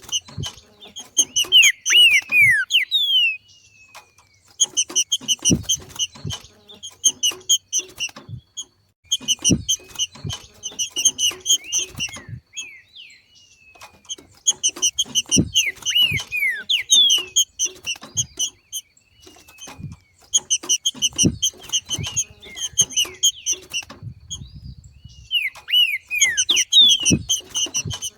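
Green-winged saltator (trinca-ferro) giving its 'macheado' call: bouts a few seconds long of rapid chattering notes with short falling whistles mixed in, broken by brief pauses.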